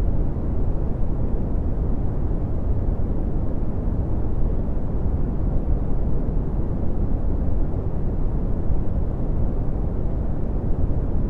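Steady red (Brownian) noise: an even, deep rushing hiss, strongest in the bass and fading toward the treble, unchanging throughout.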